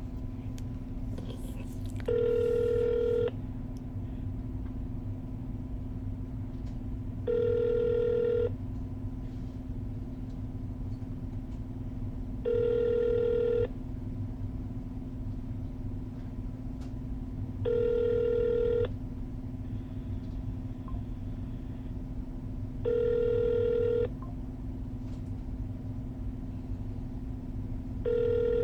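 Telephone ringback tone heard over a phone's speaker while an outgoing call rings unanswered: a pitched ring about a second long, repeating every five seconds or so, six times, over a steady low hum.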